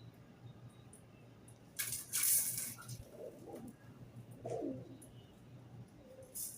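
Pigeon cooing twice, low and wavering, after a brief loud rustling noise about two seconds in.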